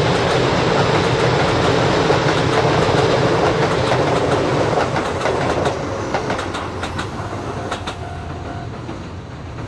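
Keisei electric train passing, its wheels clattering over the rail joints. A dense, loud rumble gives way about halfway through to distinct clickety-clack beats that fade as the train moves away.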